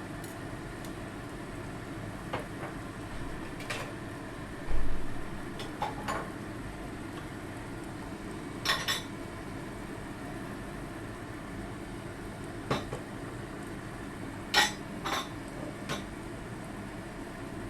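Kitchen cookware and utensils clinking and knocking now and then, about eight short clinks spread out, with a dull thump about five seconds in the loudest, over a steady low hum.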